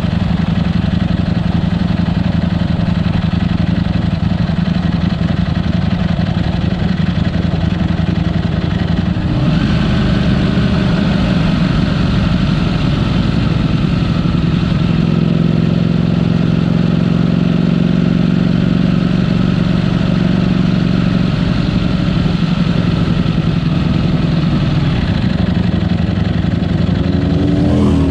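Ducati Panigale V4 S V4 engine running with its stock exhaust: a steady engine note that shifts in character about a third of the way in, with a brief rise in pitch near the end as the throttle is opened.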